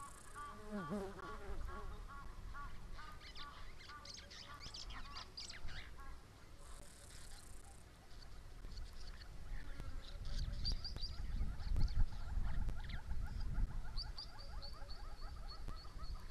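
Birds calling: a run of rapid repeated honking calls near the start and again in the second half, with scattered high chirps in between and a fast, high ticking trill near the end, over a low rumble.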